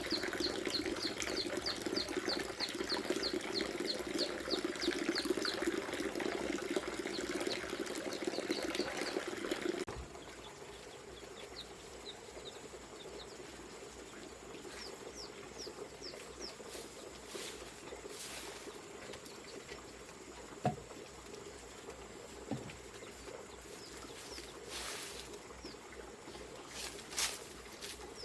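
Water running from a bamboo pipe, with birds chirping rapidly over it. About ten seconds in the water sound cuts off abruptly, leaving scattered bird chirps and a couple of sharp knocks.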